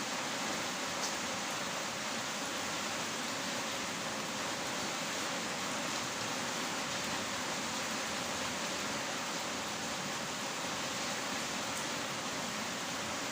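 Heavy rain falling in a steady, even hiss, with no let-up or change.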